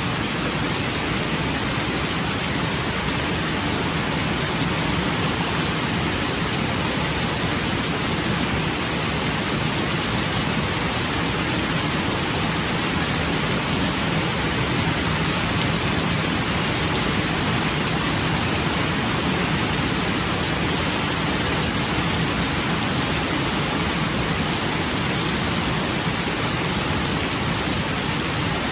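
Steady rain falling, an even hiss with no separate drops or thunderclaps standing out.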